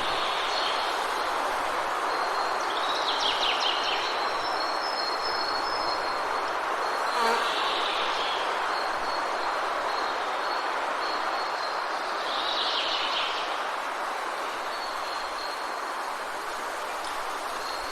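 Forest ambience: a steady rushing hiss, with a thin high insect-like drone and a few short bird calls about three, seven and twelve seconds in.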